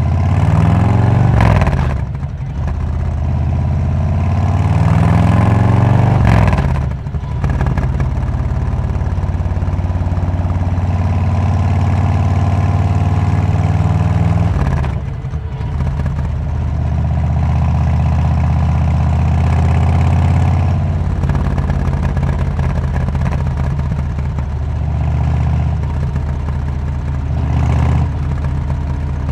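Harley-Davidson Road King's V-twin engine running through a Cobra aftermarket exhaust under way. It pulls up in several long surges, with brief sharp drops in level between them about two, seven and fifteen seconds in.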